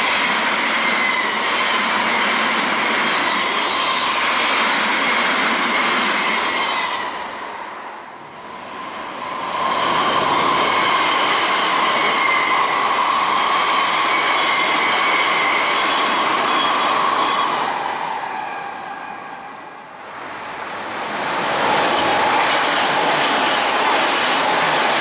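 Odakyu electric commuter trains (3000 and 4000 series) passing at speed, one after another: the rush and rumble of the cars going by on the rails, with a steady high whine. The sound dips and comes back twice, about 8 and 20 seconds in, as one passing train gives way to the next.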